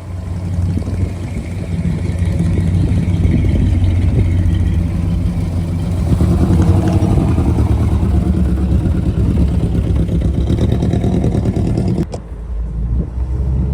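A vehicle engine running with a steady low rumble, the sound changing abruptly about twelve seconds in.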